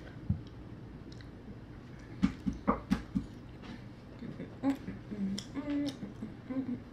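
Close-up eating sounds of a woman chewing fast food, with a quick run of sharp wet mouth clicks about two seconds in. In the second half she hums a few short notes through a closed, full mouth.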